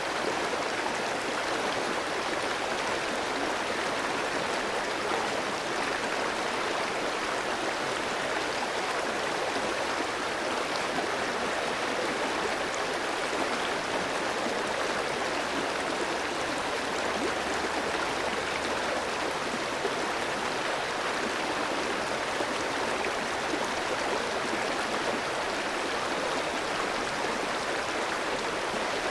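A clear, shallow stream flowing over rocks, a steady rush and babble of water that holds even throughout.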